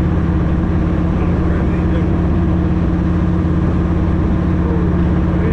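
Harley-Davidson Road Glide's V-twin engine running at a steady speed on the move, a constant low hum with road and wind noise.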